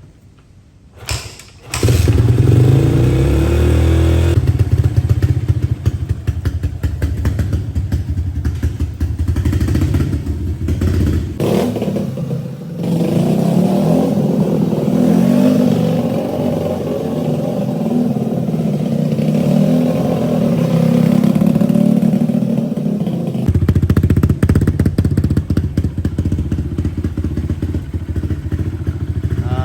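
Honda CRF150F dirt bike's single-cylinder four-stroke engine starting after a couple of knocks about two seconds in, then running loudly. The engine note shifts abruptly twice: lighter and higher in the middle stretch, then back to the heavier sound near the end. It is running with its carburetor throttle cable just refitted the right way round.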